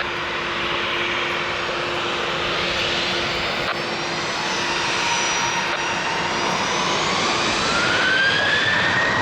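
Jet airliner engines running, a dense steady rush with a whine that rises in pitch over the last three seconds or so.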